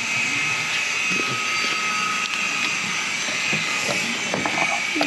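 A machine running steadily with a constant whine, with a few light clicks and knocks near the end.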